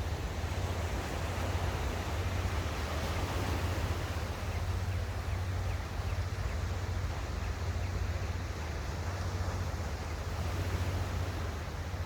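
Sea waves washing steadily onto a shore, with wind rumbling low on the microphone.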